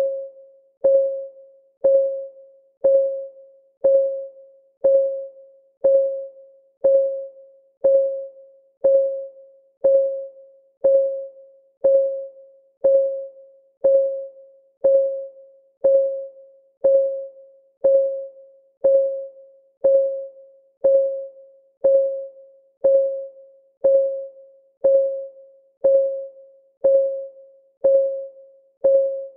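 Countdown timer's clock ticking sound: an even tick about once a second, each a short, single mid-pitched note that dies away quickly.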